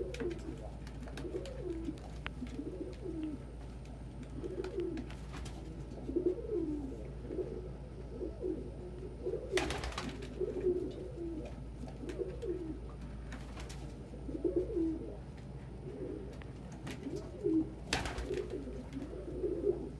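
Domestic pigeons cooing over and over, with two brief rustling bursts, one about halfway through and one near the end.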